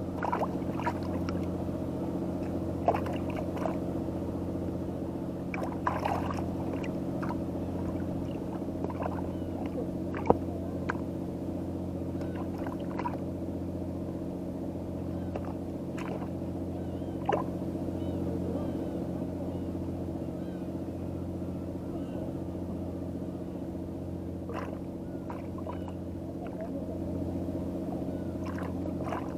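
A steady low engine hum runs throughout, with scattered light knocks and clicks over it.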